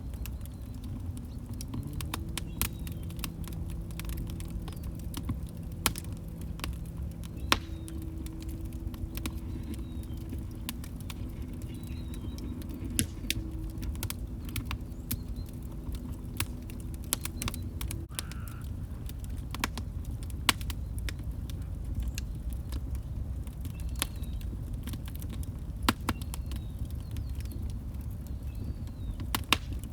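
Wood fire crackling in a fireplace: irregular sharp pops and snaps over a steady low rumble of burning logs. A faint low steady hum runs through the first half and stops about 18 seconds in.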